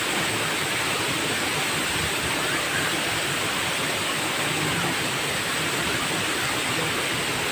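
Waterfall rushing, a steady loud roar of falling water with no letup.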